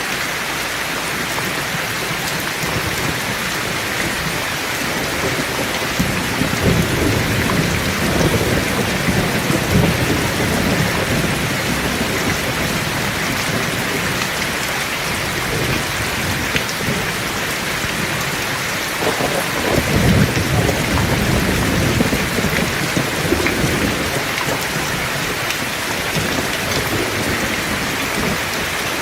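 Heavy rain falling steadily, with two long rolls of low thunder rumbling through it, one about a fifth of the way in and a stronger one past the middle.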